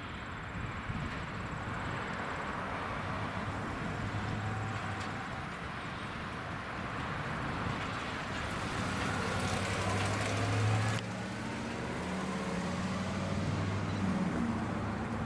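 Diesel locomotive running, its engine a low steady drone under rumbling train noise. A brighter rushing noise builds about eight seconds in and stops abruptly about three seconds later.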